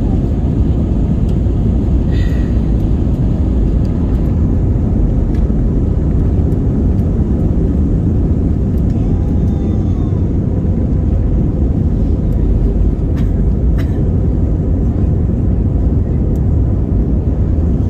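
Steady, loud low rumble of an Airbus A320's engines and airflow heard inside the passenger cabin during takeoff, with a few faint clicks.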